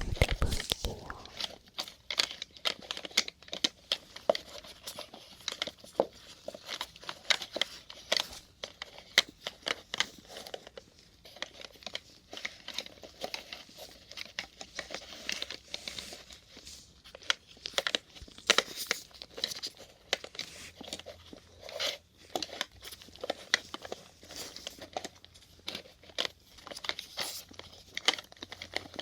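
Syringes rolled together, knocking against one another in a dense, irregular run of small clicks and clatters.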